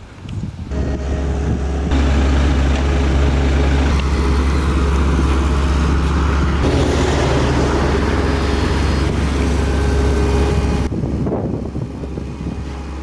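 An engine running steadily. It grows louder about two seconds in and drops away about eleven seconds in.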